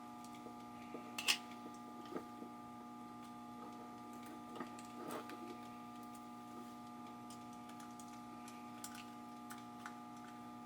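Scattered small clicks and taps of hands working on a light switch's wiring, the loudest about a second in, over a steady faint hum.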